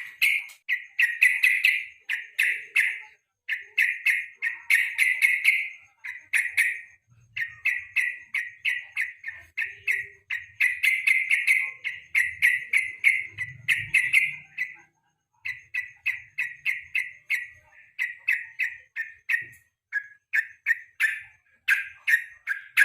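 Yellow-vented bulbul (burung trucuk) singing: loud, chattering phrases of rapid repeated notes, each lasting a second or two, one after another with brief pauses, as used for a bait song to set off other bulbuls.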